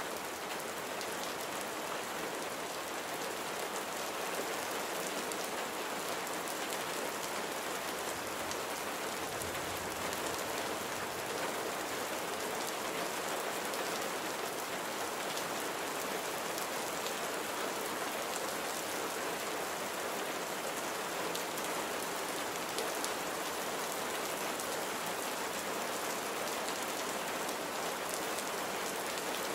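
Steady rain falling, an even wash of many drops with no change in strength.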